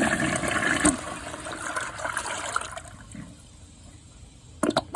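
Project Source Pro Flush dual-flush toilet flushing with a washcloth and a grocery bag in the bowl: a loud rush of water that eases after about a second and dies away about three seconds in. A few sharp knocks come near the end.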